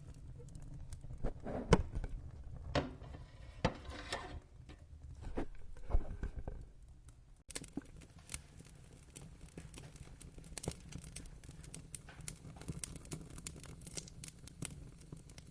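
Wood fire crackling, with irregular sharp pops over a low rumble. About seven seconds in the sound changes abruptly from a few louder pops to a denser, finer crackle.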